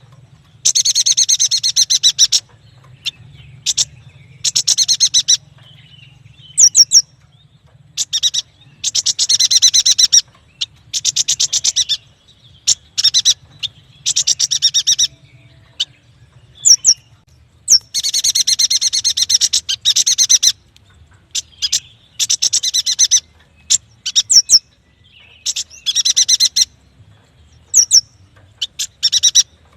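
A yuhina singing: fast, dense trilled phrases lasting one to two seconds each, repeated with short pauses, interspersed with single sharp, high chirps.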